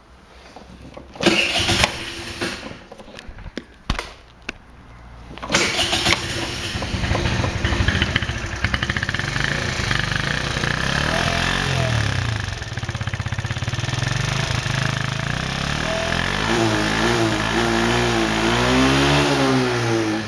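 Romet Router Bassa 50cc moped engine, with a shortened exhaust, started after a couple of brief tries and then idling. Near the end it is revved up and down several times.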